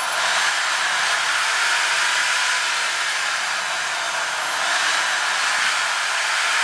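A small electric power tool running steadily: an even, hissy whir with no breaks.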